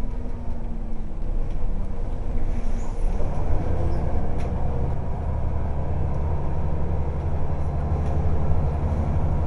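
Scania L94UB bus's diesel engine running with its ZF four-speed automatic gearbox, the low engine note growing louder and heavier about three seconds in and then holding steady.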